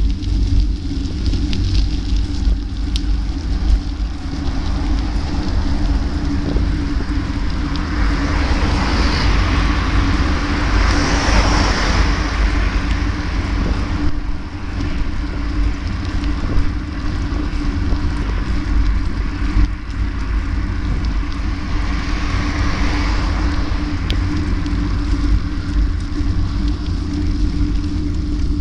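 Riding noise from a moving bike: a steady low wind rumble and a constant hum. Traffic noise swells up twice, about a third of the way in and again about three-quarters of the way through.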